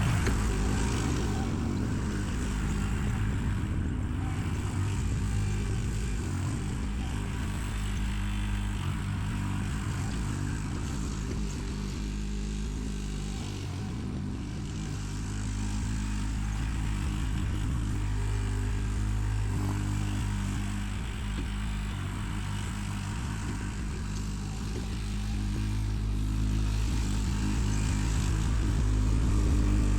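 Backhoe's diesel engine running steadily while it digs out a ditch, its loudness rising and easing as the work goes on.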